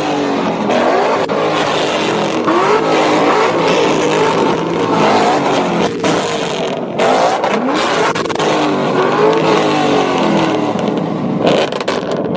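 Car engine revved hard and repeatedly while standing, its exhaust note climbing and dropping again and again in quick blips.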